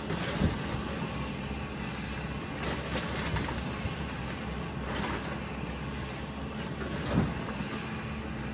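Heavy demolition machinery tearing down a building: its engine runs steadily, with about four sharp cracks and knocks of breaking material, the loudest a little past seven seconds in.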